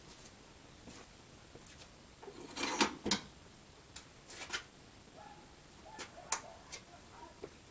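Scattered light clicks and knocks, with a short rustling burst about two and a half seconds in: handling noises, no engine running.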